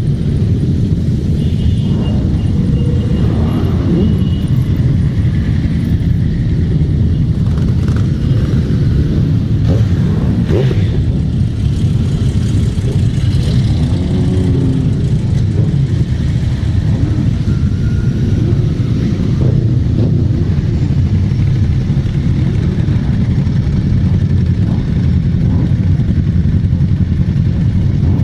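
Motorcycle engines running steadily with a constant low rumble, with a few faint rises and falls in pitch around the middle.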